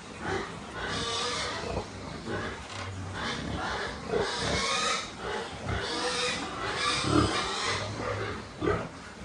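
Pigs, likely piglets, squealing and grunting in many short, irregular calls.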